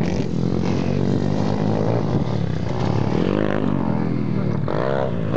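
Small-capacity pit bike engines running on a dirt track, the revs rising and falling a few times in the middle and near the end.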